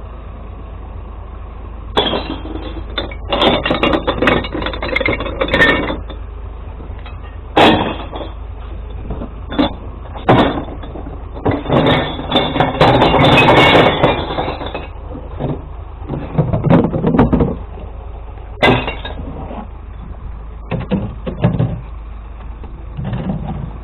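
Glass recycling truck being loaded: a series of clattering crashes and knocks, with one longer continuous clatter about halfway through, over the steady low hum of the idling truck engine.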